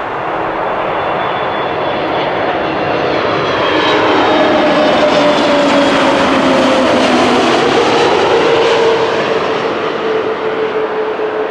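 Jet airliner on approach passing close by, its engine noise swelling to a peak in the middle and easing off near the end, with its whining tones sliding down in pitch as it goes past.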